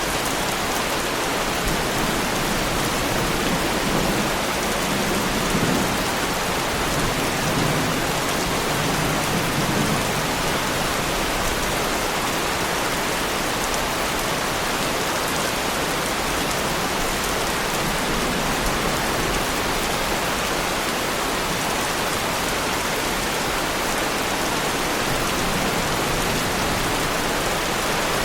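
Heavy rain pouring steadily onto a Lamborghini Huracan, a dense even hiss of drops, with a low rumble of distant thunder from about four to ten seconds in.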